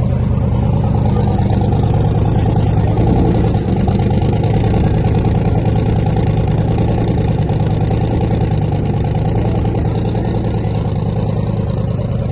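A loud car engine running steadily at low, even speed, a deep rumble with rapid, even pulsing and no revving.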